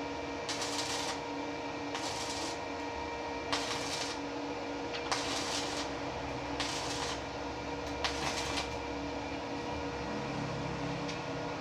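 A machine running with a steady hum, with a hissing stroke that repeats about every second and a half.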